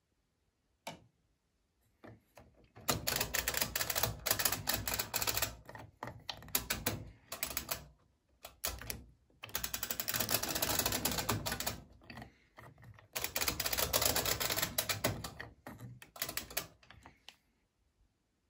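Rapid mechanical clicking in several bursts of a few seconds each, with short pauses between: the washing machine's electromechanical programme timer being turned by its knob, ratcheting through its steps.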